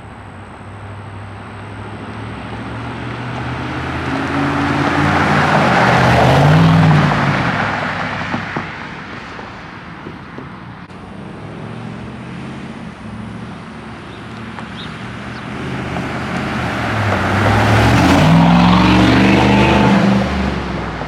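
A motor vehicle drives past twice. Each time its engine and exhaust grow louder to a peak, about six and eighteen seconds in, then fade.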